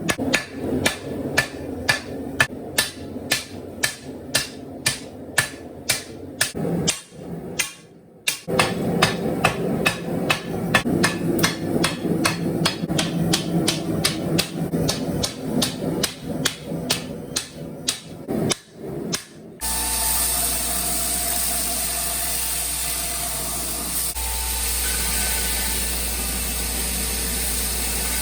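Hammer blows on leaf-spring steel being forged, about two to three ringing strikes a second, with a brief pause about seven seconds in. About two-thirds of the way through, the hammering stops and a steady rushing noise with a low hum takes over.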